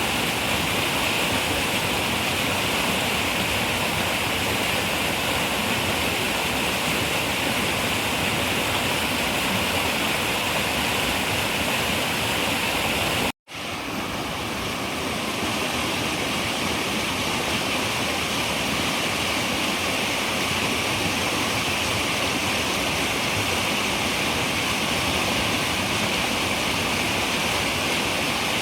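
River water running, a steady rushing noise. About halfway through it drops out for a split second and swells back in.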